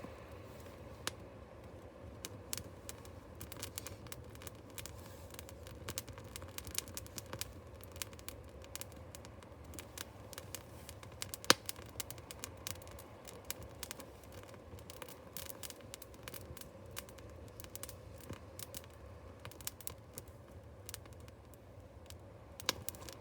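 A small fire of burning paper and kindling crackling, with irregular pops and snaps and one sharp, louder pop about halfway through.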